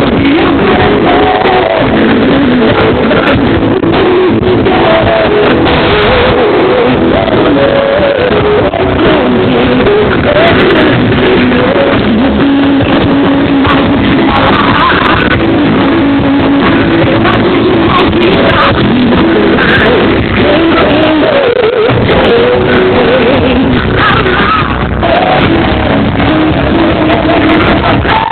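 Loud music with singing played through a paredão, a large wall of loudspeakers mounted on a vehicle, running steadily at high volume.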